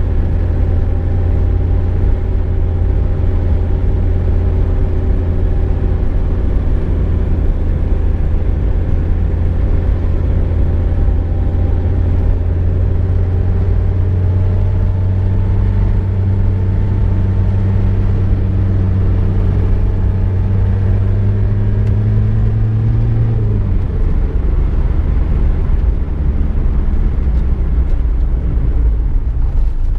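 A car driving, its engine running with a steady low hum over road noise. The engine note climbs slowly for several seconds, then drops sharply about three-quarters of the way through.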